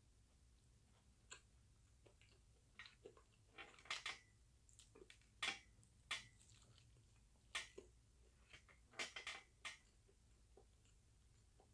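A person biting into and chewing crispy fried chicken coated in parmesan: faint, irregular short crunches and mouth clicks, closest together in the middle seconds.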